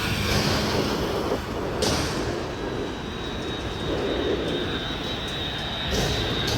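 Large jet airliner's engines flying past, a steady rumble with a thin high whine that comes in about two seconds in.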